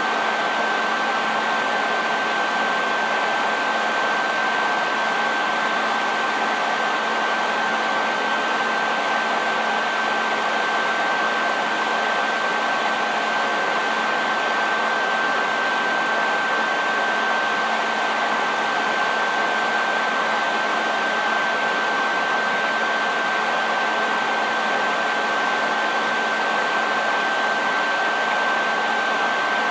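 Hair dryer running steadily: an even rush of blowing air with a constant high whine from its motor and fan.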